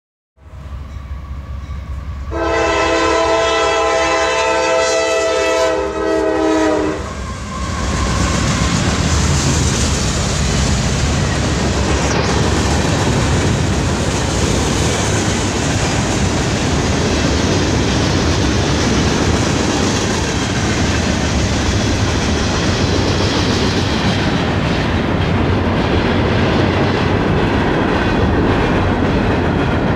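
CSX freight locomotive's air horn sounding a chord for about four and a half seconds, starting a couple of seconds in. Then comes the steady rumble and rolling wheel clatter of the freight cars passing.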